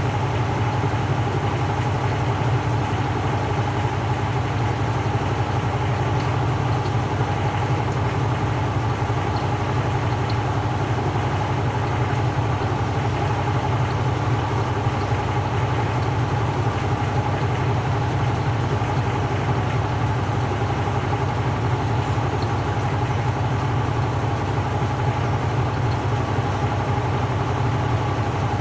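Samsung 6.5 kg top-loading washing machine spinning steadily, a constant low hum with a faint steady whine above it and no pauses.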